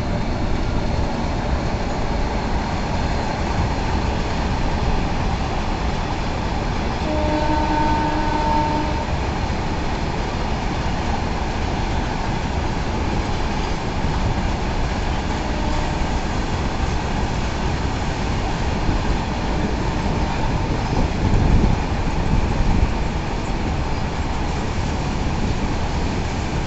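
A goods train of covered wagons behind a WAG-9 electric locomotive running past at full speed, giving a steady rumble and clatter of wheels on the rails. About seven seconds in, a tone sounds for about two seconds.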